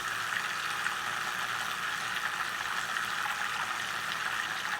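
Vortex generator running with its spinner whirling the water in the beaker, a steady whir at turned-down speed that cuts off abruptly at the very end as the machine is switched off.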